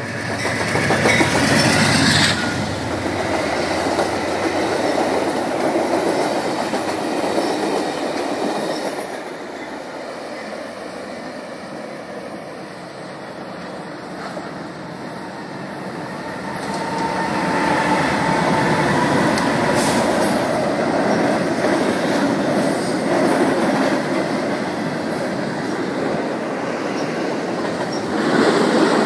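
Train rolling past: a steady rumble and clatter of wheels over the rails, easing off in the middle and building up again.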